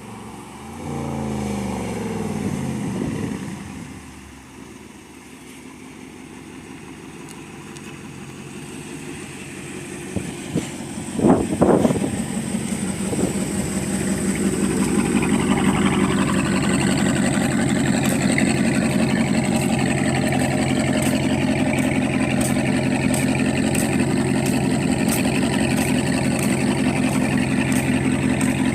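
Muffler-deleted 2019 Dodge Charger Daytona V8 exhaust: engine note falling away in the first few seconds, then growing slowly louder, with two quick rev blips about eleven seconds in, and a steady idle from about halfway on.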